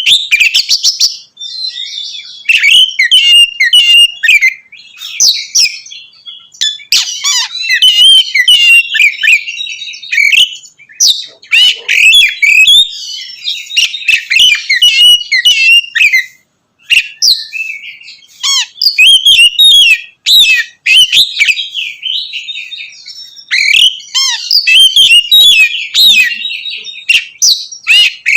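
Oriental magpie-robin (kacer) singing loudly in quick, varied phrases of whistles, trills and harsher notes, broken by a few short pauses.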